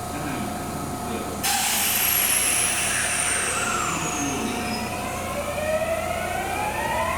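Kintetsu electric commuter train pulling out: a sudden loud hiss about a second and a half in, then the whine of its inverter-driven traction motors, several tones rising in pitch together as the train accelerates.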